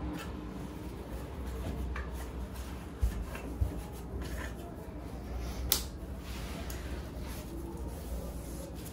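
Kitchen handling sounds: soft rubbing and shuffling with three light knocks, the sharpest a little before the six-second mark.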